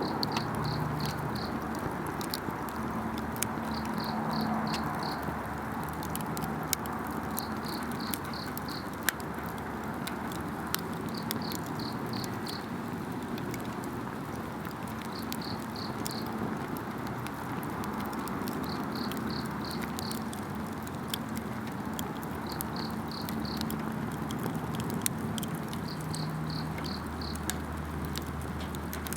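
Wood campfire burning with scattered sharp crackles and pops over a steady hiss, while an insect chirps in short runs of three or four pulses every three to four seconds.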